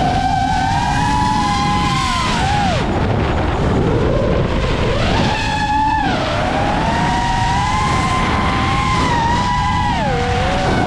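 Motors and 7-inch propellers of an FPV quadcopter whining in flight, the pitch rising and falling with the throttle and dropping sharply about three, six and ten seconds in, over steady wind rush.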